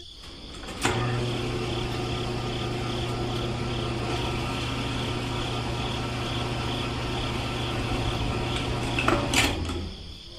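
A small motor running steadily, with a constant low hum and a faint regular pulsing. It starts about a second in and stops near the end.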